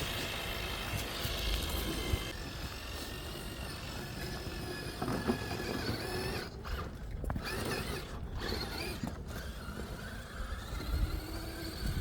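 Axial SCX6 Honcho 1/6-scale RC rock crawler's electric motor and geared drivetrain whining as it crawls over rocks, the pitch shifting with the throttle.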